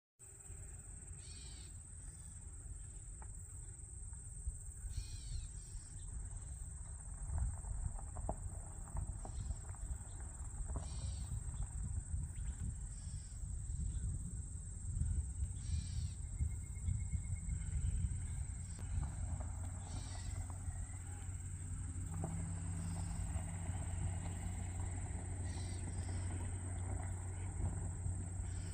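Northern mockingbird giving short, harsh scolding calls every couple of seconds, an alarm at a red-tailed hawk. A steady high buzz and a low rumble run underneath.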